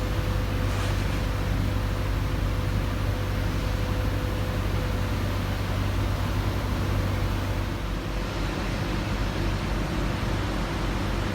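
Steady mechanical hum with an even hiss, and a faint thin whine that fades out about seven seconds in.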